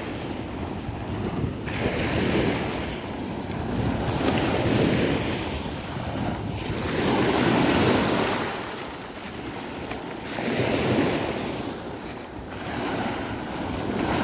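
Sea waves breaking and washing up a sandy beach, swelling and fading in surges every few seconds, with wind buffeting the microphone.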